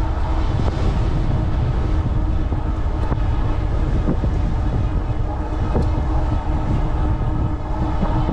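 Strong wind buffeting the microphone with a low rumble while riding into a headwind. Underneath it runs a steady hum from the e-bike's Bafang 750 W rear hub motor, pulling under throttle.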